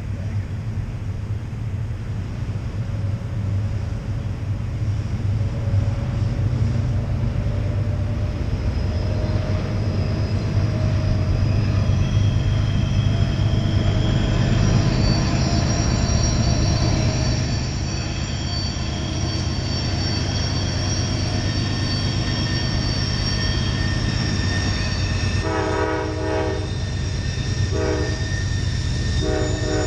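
Freight train's diesel locomotives rumbling steadily, with the thin high squeal of steel wheel flanges grinding on the tight curve. Near the end the locomotive horn blows three times, the first blast the longest.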